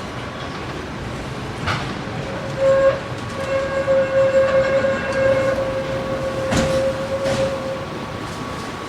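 A tram running on its rails with a continuous rumble. A steady pitched tone comes in about a third of the way through and holds for about five seconds, and there are two sharp knocks.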